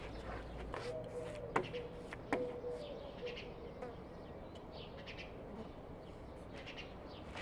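Small birds chirping intermittently in the background, with two sharp light knocks about one and a half and two and a half seconds in.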